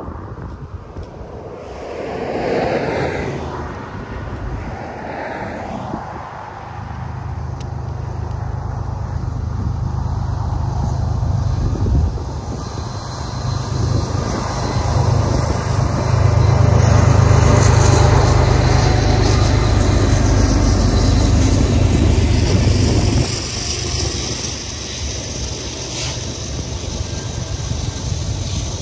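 Two BNSF diesel locomotives hauling a double-stack container train approach and pass. Their deep engine rumble builds, is loudest about two-thirds of the way in, then drops away as they go by, leaving the lighter rushing and hiss of the stack cars' wheels on the rails.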